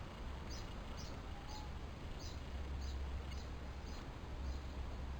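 A small bird chirping repeatedly, short high chirps about two a second that fade near the end, over a steady low hum.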